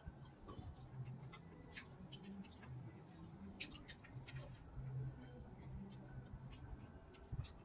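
Close-up eating sounds: chewing and wet lip-smacking, many small sharp mouth clicks at an irregular pace, as a mouthful of rice and buffalo meat curry is eaten by hand.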